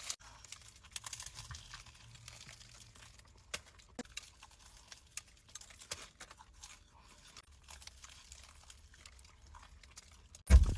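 Close-miked chewing and crunching of food, with many short crisp crunches and clicks. A single loud, deep thump comes near the end.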